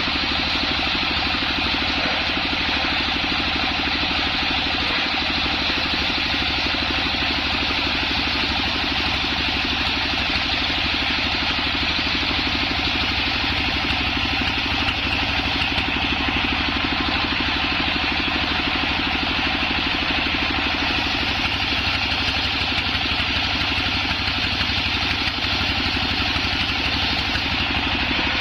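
Homemade circular sawmill rig running steadily with a constant, even machine drone.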